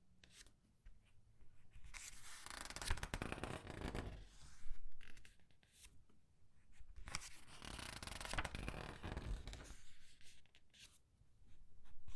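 Comic book pages being turned one at a time and squeezed, the paper rustling and crinkling for about two seconds with each turn, roughly every five seconds, with quiet pauses between.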